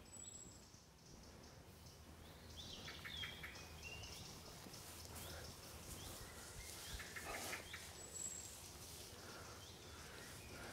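Faint birdsong of small birds over quiet outdoor background noise, with short chirps repeating every second or so.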